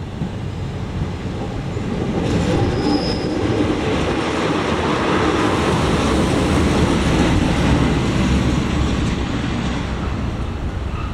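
ČD class 814 RegioNova diesel multiple unit passing over a level crossing: the rumble of its wheels on the track builds from about two seconds in, is loudest in the middle and eases off near the end. A brief high squeal comes about three seconds in.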